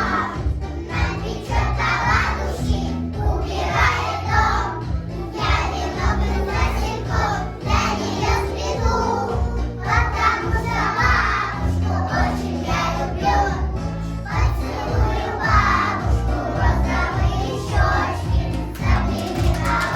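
A children's song: young voices singing together over an instrumental accompaniment with a steady, stepping bass line.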